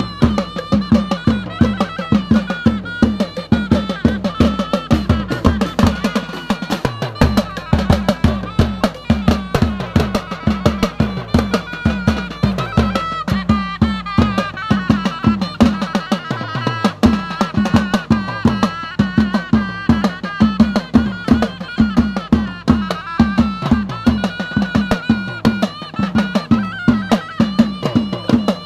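Northern Thai (Lanna) traditional procession band playing: drums and percussion keep a fast, even beat under a wavering melody line.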